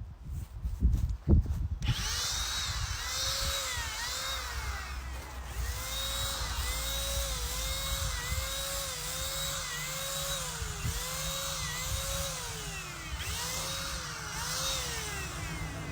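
Cordless electric paint sprayer running as it sprays stain, starting about two seconds in: a steady airy hiss with a motor whine that swoops up and down in pitch about once a second.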